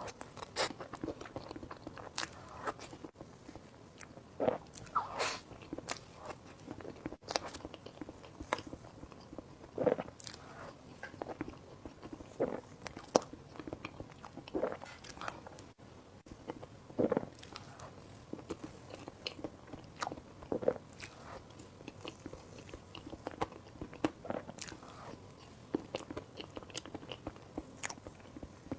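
A person eating close to the microphone: irregular bites and chewing, with short sharp mouth clicks about once or twice a second.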